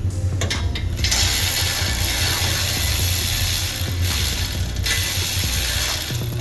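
Pneumatic air tool, ratchet-like, running in two bursts: a long one of about three seconds and a shorter one of just over a second, after a few clicks. Under it runs a steady low engine rumble.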